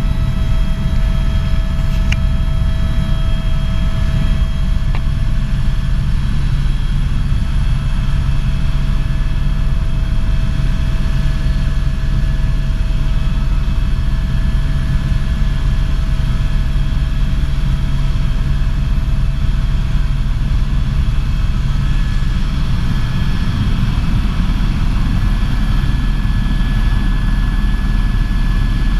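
Helicopter's engine and rotor running steadily in flight, a loud low drone with a steady whine above it.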